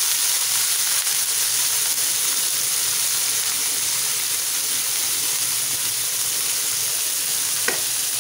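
Shredded cabbage frying in hot oil in a pan, a steady sizzling hiss, with one short click near the end.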